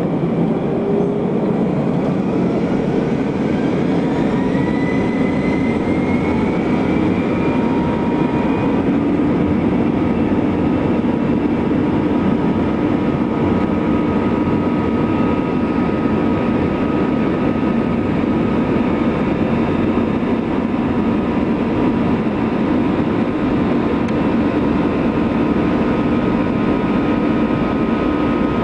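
Airbus A321 jet engines spooling up to full takeoff thrust: a whine rises in pitch over the first several seconds and then holds steady over a loud, continuous roar and rumble.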